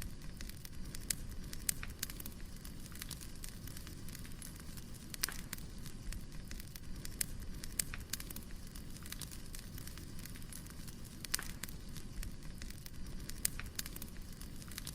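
Firewood burning: a steady low hiss of the fire with irregular sharp crackles and pops throughout, a few louder snaps among them.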